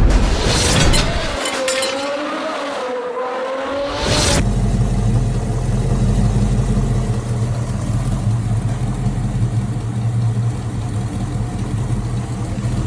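A short intro of wavering, gliding tones for about four seconds, then an abrupt cut to a used car engine idling steadily.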